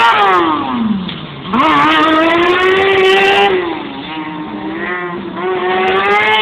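Racing car engine working through a slalom course: the revs fall away for about a second as the throttle is lifted, pick up sharply, hold, ease off again and then climb steadily toward the end.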